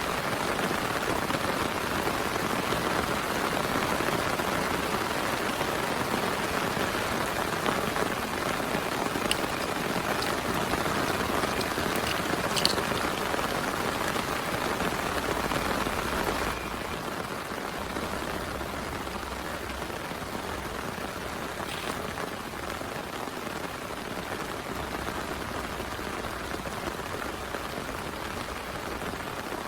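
Heavy rain falling steadily, with a few faint sharp ticks of drops. The rain sound drops slightly in loudness a little past halfway.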